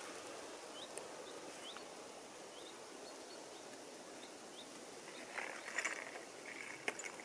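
Quiet forest ambience with a small bird repeating short, high, upward-flicking call notes about every half second. About five seconds in there is a brief spell of rustling with a couple of sharp clicks.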